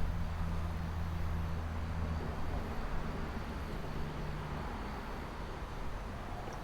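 Low, steady hum of a distant motor vehicle that fades out over the first few seconds, over a steady rushing noise.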